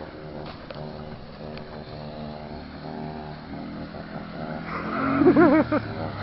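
Homelite two-stroke chainsaw idling unevenly with its chain brake engaged, then given a few short revs near the end, each rising and falling in pitch.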